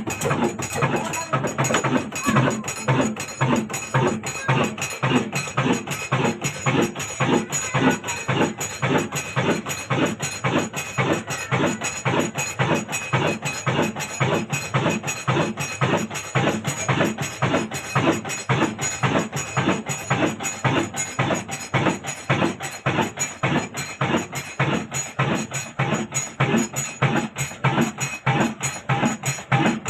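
Old 22 HP Ruston diesel engine running at slow speed, a steady, rapid, even knocking beat of its firing strokes.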